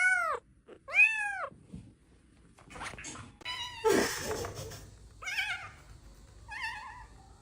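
Cat meowing: two clear meows, rising then falling in pitch, in the first second and a half, then a burst of noise and two shorter, wavering meows later on.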